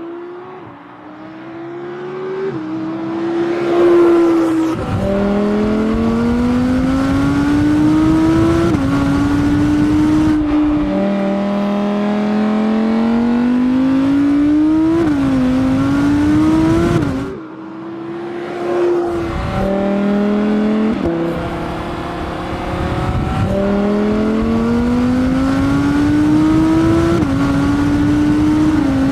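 Audi R8 GT's 5.2-litre naturally aspirated V10 accelerating hard through the gears. The engine note climbs steadily and then drops sharply at each quick upshift of the seven-speed dual-clutch gearbox. The sequence repeats in several pulls, with a brief lift-off a little past halfway.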